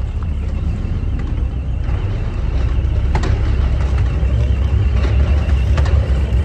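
Low, steady rumble of a car engine running, gradually getting a little louder, with a few faint clicks.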